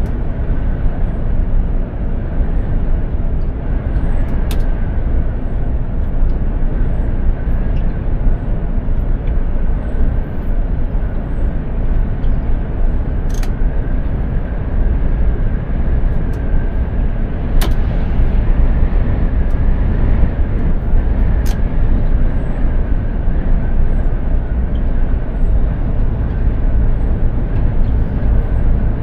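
Mercedes-Benz Actros 2763 truck driving at steady speed: a continuous low rumble of engine and road noise, with a faint held whine and four light clicks scattered through it.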